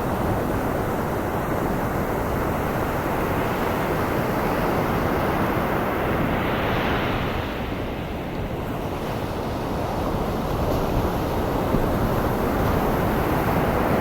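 Ocean surf blended with steady white noise: waves washing in and out over a constant hiss, one swell peaking about halfway through, a dip, then another building near the end.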